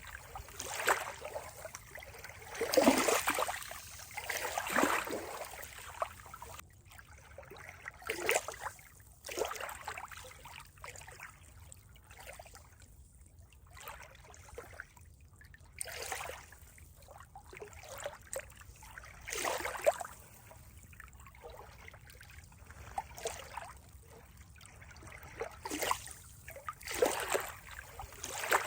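Water trickling and splashing in uneven surges, a louder splash every second or two over a steady low hiss.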